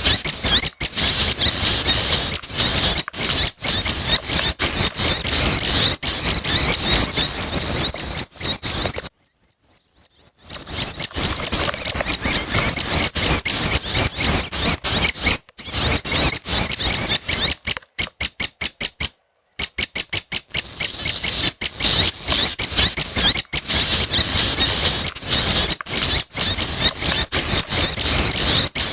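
Young prenjak birds calling: a dense, rapid stream of high-pitched chattering calls, with two short breaks of near silence, the first about nine seconds in and the second a little past the middle.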